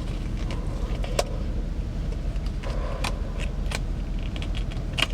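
Plastic backing film being picked at and peeled from a screen protector, giving scattered sharp crackles and ticks, about five in all, over a steady low rumble.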